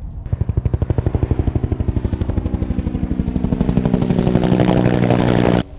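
Helicopter flying close by, its rotor beating in a fast, even pulse over the engine's whine, growing louder as it nears, then cut off abruptly.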